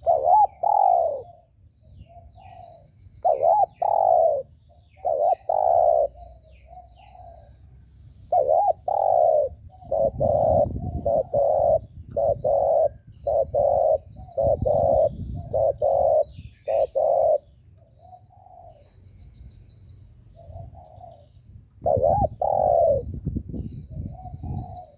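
Spotted dove cooing in repeated phrases: a few spaced calls, then a quicker run of short coos in the middle, then another phrase near the end. It is the 'gù' coo that keepers play to rouse and lure wild spotted doves.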